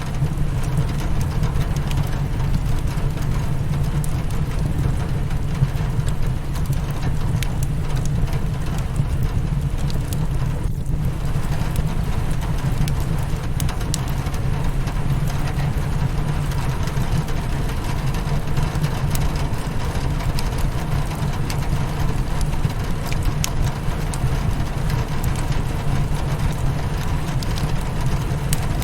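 Rain on a window mixed with a crackling fireplace: a steady, dense low rumble with scattered small crackles and pops over it.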